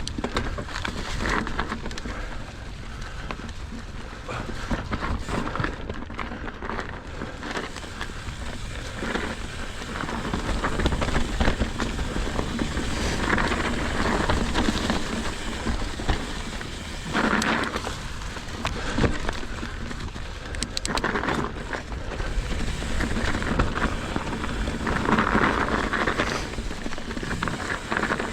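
Continuous rough rumble and rattle of a mountain bike riding over a frozen dirt trail, heard through the GoPro Hero 8's own microphone: tyre noise on the hard ground and the bike rattling, with a few louder surges over rougher stretches.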